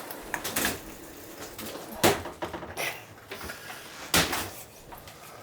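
A raw turkey being cut through the bone: handling noise broken by a few sharp crunching knocks, the loudest about two seconds in and another about four seconds in.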